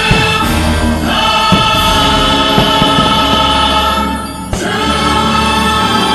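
Orchestral show music with a choir singing sustained chords, dipping briefly about four seconds in.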